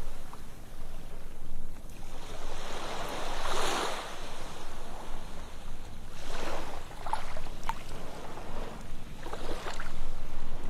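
Ocean surf on a sandy beach: waves breaking and washing in, the rush swelling and fading in surges every few seconds. Small sharp splashes flick through the wash in the second half.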